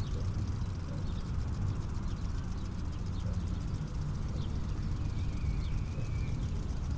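Outdoor ambience: a steady low rumble with scattered faint bird chirps and a brief bird trill about five seconds in.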